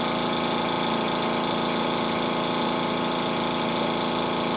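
Tuxing TUXD11 high-pressure air compressor running steadily near the end of a tank fill at about 4,000 psi.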